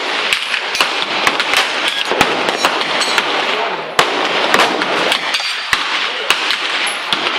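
Gunfire on a shooting range: many sharp pistol and gun shots from several shooters in quick, irregular succession, with one louder shot about four seconds in.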